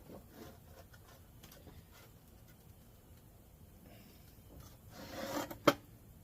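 Sharpie marker scratching faintly as it traces the outline of a wooden swing onto window screen, then a short rustle and one sharp click about five and a half seconds in.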